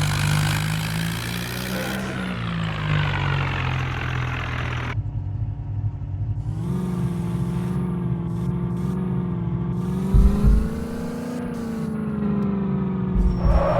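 A vehicle engine running, its pitch drifting slightly up and down. The sound changes abruptly about five seconds in, after which a similar engine note carries on, with a couple of short low thumps near the end.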